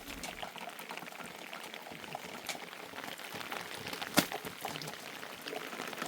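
Rain falling steadily, a dense haze of small drop ticks, with one sharp tap or knock about four seconds in.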